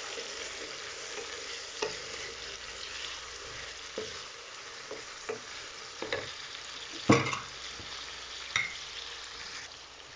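Oil sizzling steadily in a metal karahi as chicken, onion, tomatoes and green chillies fry, with a wooden spatula stirring and scraping through them. A few sharp knocks of the spatula against the pan, the loudest about seven seconds in.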